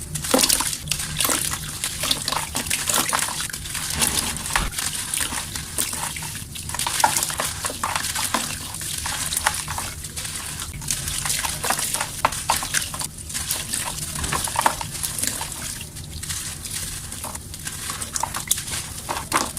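Soft, dusty mud chunks being crumbled and crushed, a dense, irregular run of crackles and crunches.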